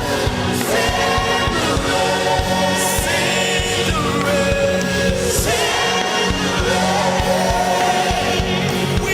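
Gospel worship music: a choir singing with a band, a steady beat of drums under sustained bass.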